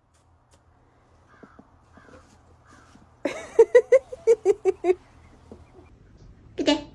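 An animal giving a rapid run of about nine short, harsh calls, followed by one more call near the end.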